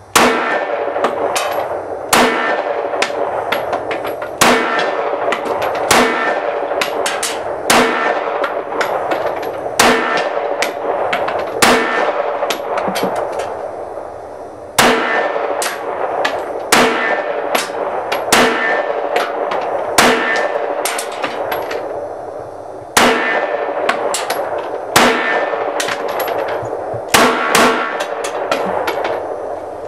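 Glock 19 Gen4 9mm pistol firing Winchester White Box ammunition: about fifteen single shots fired roughly every two seconds, each with a ringing, clanging tail. The pistol cycles every round without a stoppage.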